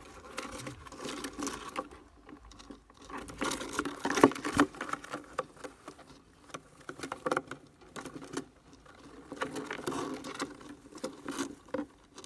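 Irregular scratchy rustling and clicking, coming in uneven bursts of a second or two with short quieter gaps.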